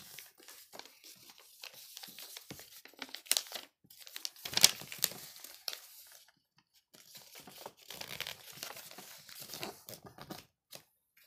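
Sheet of paper rustling and crinkling in irregular bursts as it is handled and creased, folding up a paper airplane's wings, with a sharper crackle about four and a half seconds in.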